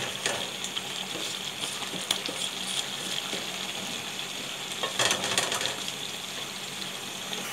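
Chicken karahi masala sizzling in a metal karahi on high heat while a wooden spatula stirs it, scraping and knocking against the pan, louder about five seconds in. The masala is being fried (bhuna) until the oil separates.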